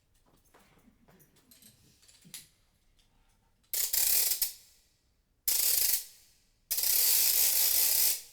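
A ratchet-like winding noise in three bursts, the longest near the end: a clockwork-key winding effect for the mechanical doll being wound up again in the middle of the aria.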